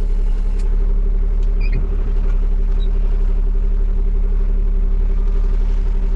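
Dump truck's diesel engine running at a steady, even pitch with a deep rumble.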